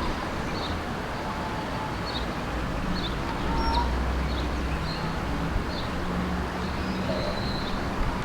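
White-faced whistling ducks giving short, high whistles, a dozen or so in an uneven series roughly once a second, over a steady low background rumble.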